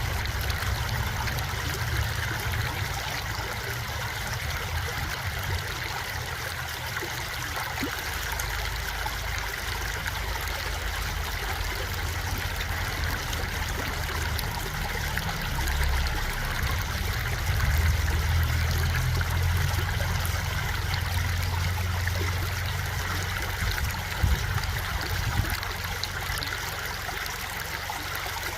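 Stream of water flowing and trickling steadily, with a low rumble underneath that grows louder a little past the middle.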